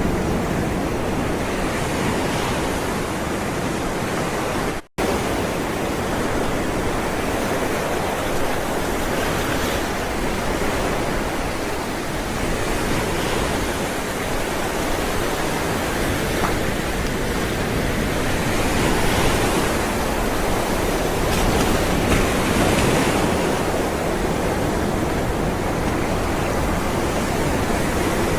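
Ocean surf: a steady rush of rolling waves with gentle swells, cut by a split-second dropout to silence about five seconds in.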